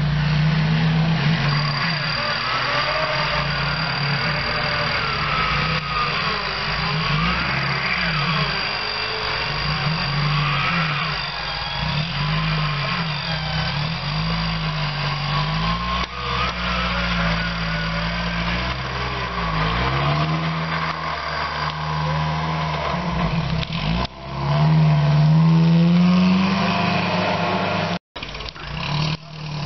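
Off-road 4x4's engine revving up and falling back again and again as it crawls under load through a muddy gully. It gives a long, hard rev near the end, then cuts off abruptly.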